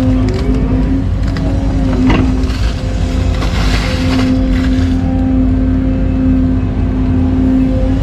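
Excavator's diesel engine running steadily under work, with a brief sweep in pitch and a few clicks about two seconds in and a burst of hiss around four seconds.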